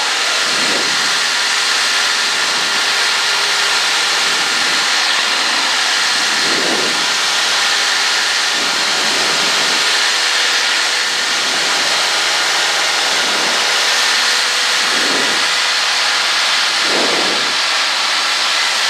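Cessna 152's four-cylinder Lycoming piston engine and propeller running steadily in flight, a loud even drone with a rushing hiss of wind and a few steady hums heard inside the cabin.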